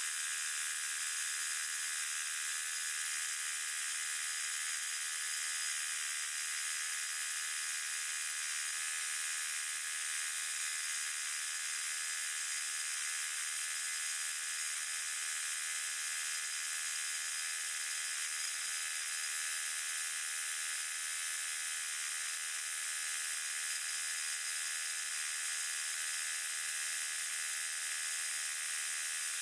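Sawmill running steadily, heard as a constant high-pitched whir with no low end, its pitch raised by sped-up playback.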